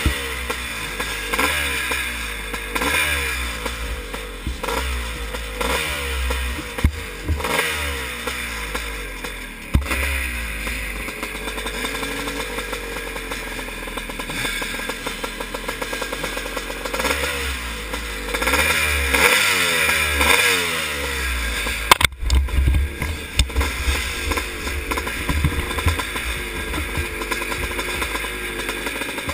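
Vintage motocross motorcycles racing, their engines revving up and dropping away again and again as riders shift and pass. A single sharp knock comes about three-quarters of the way through.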